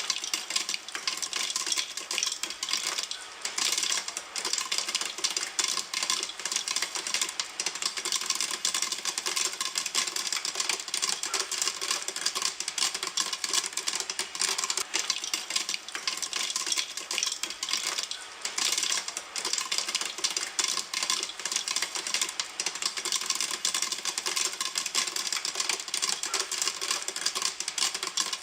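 Popcorn popping in a pan: a dense, continuous run of many small pops, far too quick to count, with no let-up.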